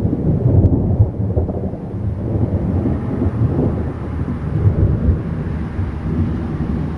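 Thunder from a close, noisy thunderstorm cell, one long low rolling rumble that is loudest near the start and slowly eases off.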